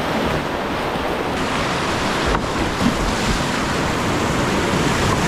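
Steady, loud rush of creek whitewater around a kayak running a rapid.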